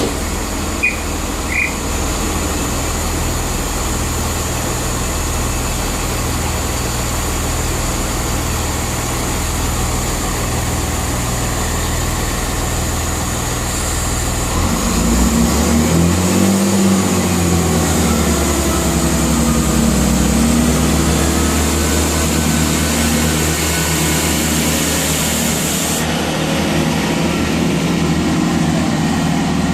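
Class 165 Turbo diesel multiple unit's underfloor diesel engines idling at the platform, then revving up about halfway through. They get louder, with the pitch rising and dipping as the train works up to pull away.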